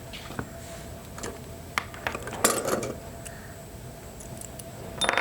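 Scattered metallic clinks and clicks of bolts and hand tools being handled as bolts are taken off an outboard motor. The clicks come in a denser cluster about two to three seconds in.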